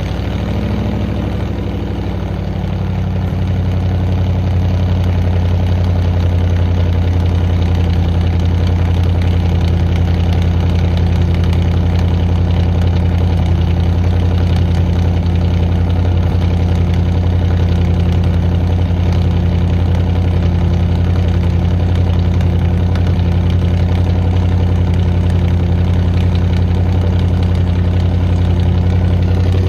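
1995 Ford F-250's 302 V8 idling through dual straight pipes, heard from behind at the tailpipes, just after a cold start in deep cold. The fast idle drops and settles about two to three seconds in, then runs steady.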